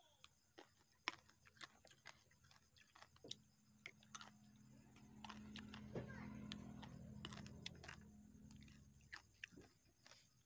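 Close-miked chewing of raw takokak (pea eggplants): soft crunches and many small wet mouth clicks. A low steady hum swells up in the middle and fades away again.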